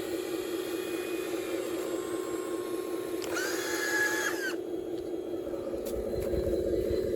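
Electric motor of a radio-controlled construction machine whirring steadily, with a higher whine joining a little past three seconds in for about a second, then low rumbling near the end.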